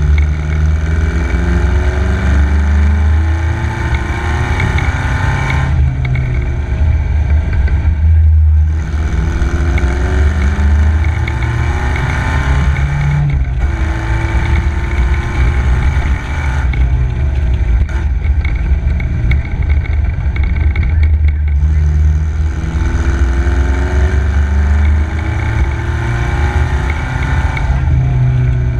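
Engine of an MG KY Special racing car at speed, rising in pitch again and again as it accelerates, with short breaks every few seconds where the throttle is lifted for gear changes or corners.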